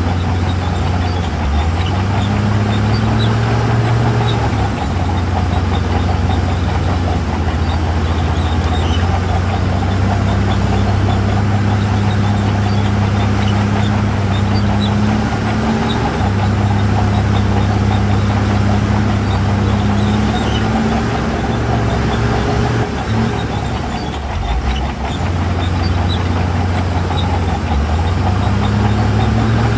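Heavy diesel engine of earthmoving machinery working, its engine speed rising and dropping back several times as it takes and sheds load.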